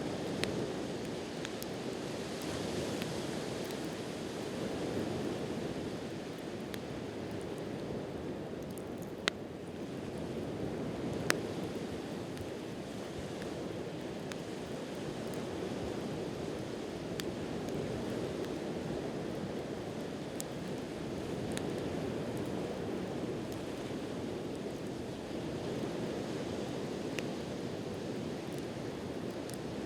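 Steady wash of sea surf swelling and easing, with a wood campfire crackling: scattered faint ticks and a couple of sharp pops, the loudest about nine and eleven seconds in.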